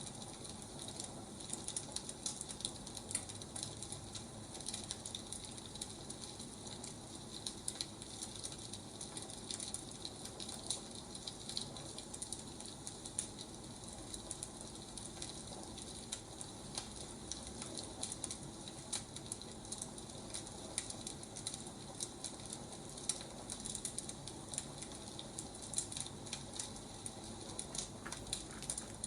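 Wood fire crackling: irregular snaps and pops over a steady soft hiss.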